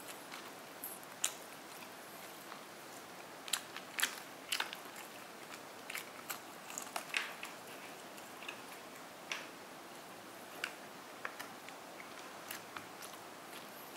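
Close-up eating sounds: crunchy chewing of the crispy fried coating of a chicken chop, irregular sharp crunches and clicks over a steady faint hiss.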